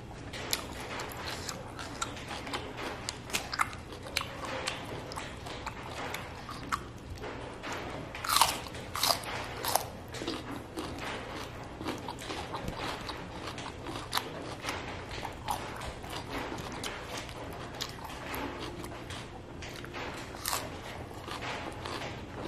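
Close-up eating sounds: a person chewing and crunching raw vegetables (cucumber and cabbage lalapan), with many small crisp clicks and three loud crunches about eight to ten seconds in.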